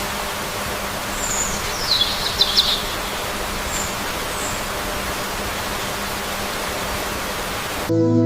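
Steady rushing water, with a quick run of high, falling bird chirps from about one to three seconds in and two short high calls a little after. Soft ambient music with held tones comes in right at the end.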